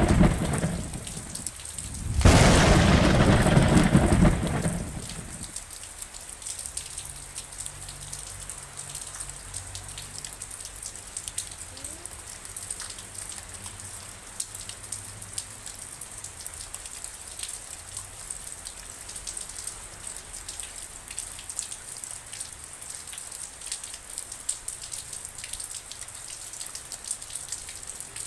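Thunderstorm: two loud claps of thunder over rain in the first five seconds, the first fading about a second and a half in, the second starting about two seconds in and ending about five seconds in. After that, steady rain with raindrops ticking.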